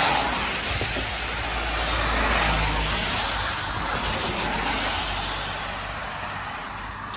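Road vehicles passing, a steady tyre hiss and engine rumble that swells twice and then fades away.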